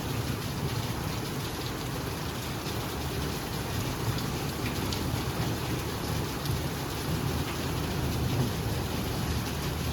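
Steady rain falling, a continuous hiss with many small drop taps scattered through it.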